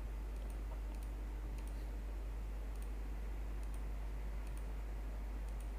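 Faint, irregular clicks of a computer mouse, about ten of them, over a steady low electrical hum.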